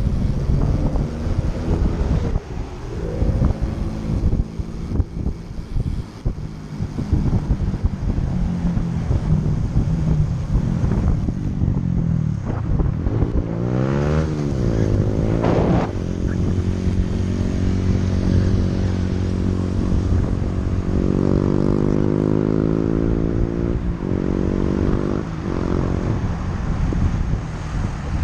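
Road traffic: motor vehicle engines running close by, with one vehicle passing about halfway through, over rough wind noise on the microphone.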